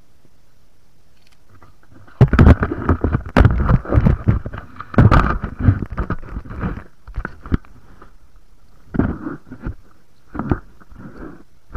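Water splashing and sloshing in irregular bursts, dense for about five seconds from two seconds in, then a few shorter splashes near the end.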